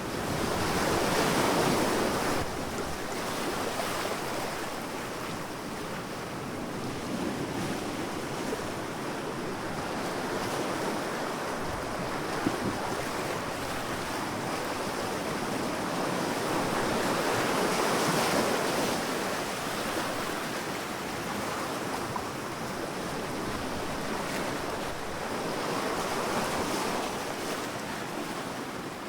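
Sea waves breaking and washing up a beach, a steady surf noise that swells as a wave comes in, about three times, with a little wind noise on the microphone.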